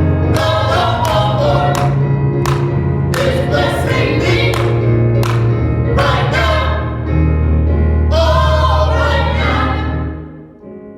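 Gospel choir singing over a steady bass accompaniment; the music fades out near the end.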